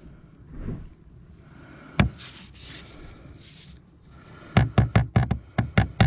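Hammer blows: one sharp knock about two seconds in, then a quick run of about nine blows near the end, roughly six a second.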